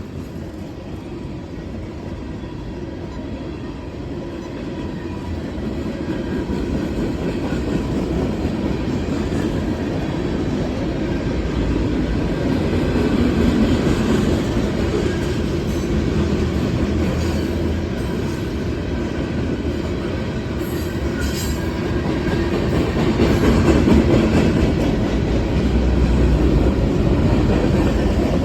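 CSX freight train rolling past on the main track, a steady rumble of wheels on rail with clickety-clack over the joints, growing louder through the first half.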